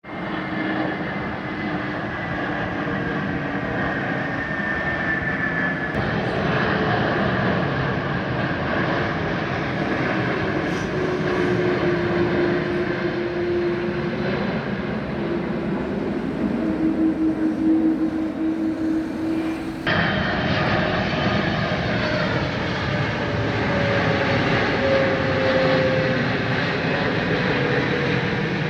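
Jet airliner passing overhead on approach to Heathrow: a loud, steady engine roar with high and low whining tones that slowly fall in pitch. The sound shifts abruptly about two-thirds of the way through and the roar carries on, with another slowly falling whine.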